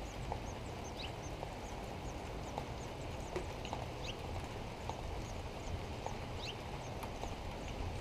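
Small bird chirping outdoors: short, high chirps repeating about two to three times a second, with a few sliding notes, over a steady low background noise and scattered soft clicks.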